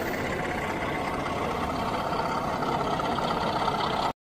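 Steady background noise of a model railway exhibition hall, which cuts off suddenly about four seconds in.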